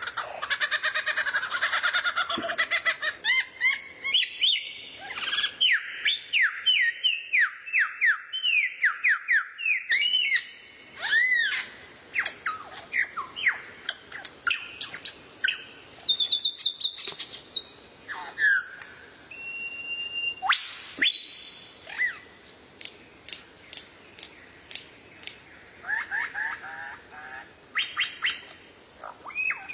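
A songbird singing: a warbling phrase, then a quick run of sharp down-slurred whistled notes about two a second, followed by scattered chirps, trills and one short steady whistle, thinning out near the end.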